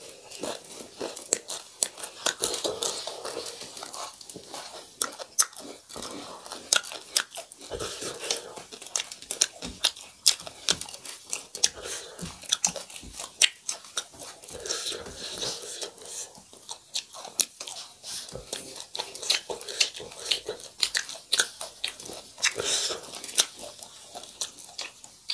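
Close-up chewing and biting of crunchy food, a dense run of sharp crunches with wet mouth sounds between them.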